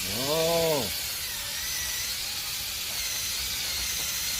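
A person's short rising-and-falling "hmm" in the first second, over a steady hiss with a faint wavering whine from the badminton-court line cleaner running.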